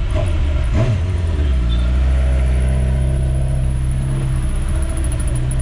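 Car engine running at low, steady revs, heard from inside the cabin in slow stop-and-go street traffic. A steady low hum settles in about a second and a half in.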